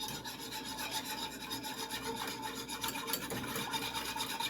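Whisk stirring sugar and water in a saucepan, with rapid, even scraping strokes against the pan as the sugar is dissolved for the brine.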